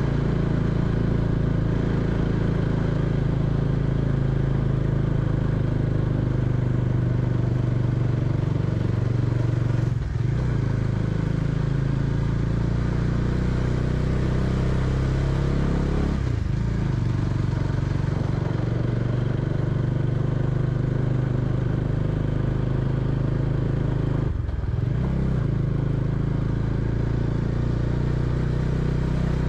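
Bajaj Dominar 400's single-cylinder engine running steadily under way at low road speed. The note dips briefly three times and picks up again.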